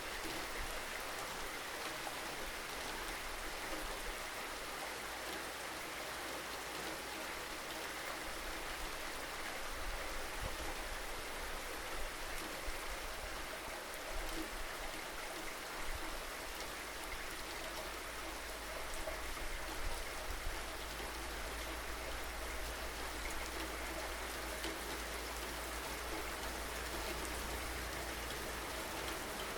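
Steady rainfall, an even hiss of many drops, with a low rumble underneath that grows stronger about a third of the way in.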